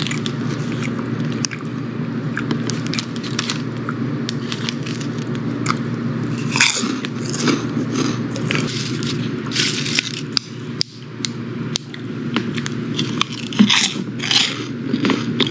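Close-up chewing and crunching of crispy fried pork rinds, with many sharp crackles throughout and denser bursts of crunching about halfway through and near the end.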